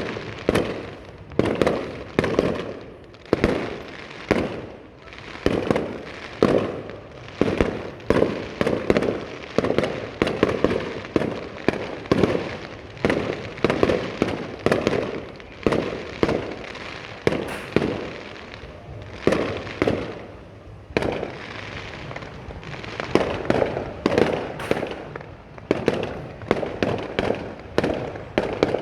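Aerial fireworks display: shells bursting one after another, about one to two sharp bangs a second, each trailing off in an echoing rumble.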